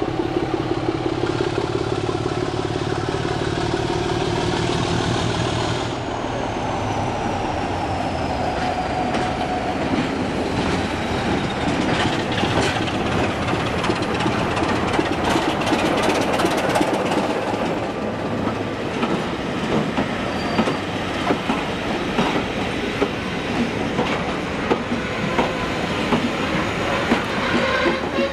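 Diesel locomotive hauling a train of coaches into a station. The engine throbs steadily for the first few seconds and changes note about six seconds in, with a thin falling whine. Then come repeated clicks of the wheels over the rail joints as the locomotive and coaches pass close by.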